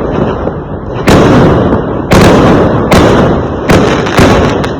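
Fireworks exploding: five sharp bangs roughly a second apart, each trailing off in a low rumble before the next.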